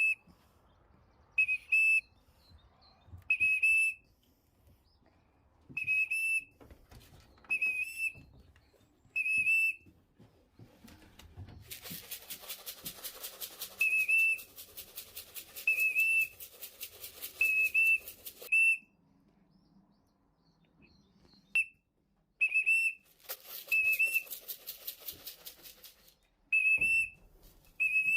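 A pigeon fancier's trapping whistle blown in short, shrill, warbling blasts, about one every one to two seconds, calling young racing pigeons in off the landing board. Twice there is a rapid, even rattling for a few seconds, under the whistles.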